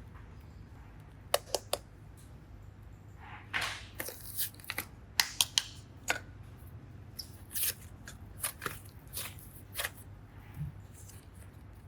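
Hands handling craft materials: a scattered series of sharp clicks and short rustling, crinkling scrapes, heard over a low steady hum.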